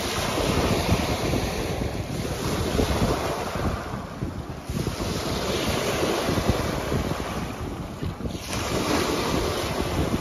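Waves crashing on a rocky shoreline and washing back out over the rocks, in surges that rise again after short lulls about 4 and 8 seconds in. Wind buffets the microphone, adding a low, ragged rumble.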